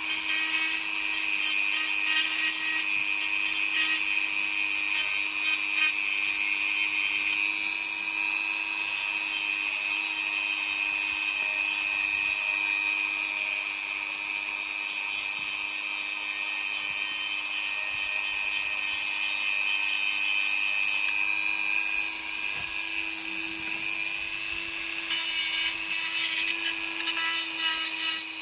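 A power tool running steadily with a high-pitched whine, held at an even speed throughout.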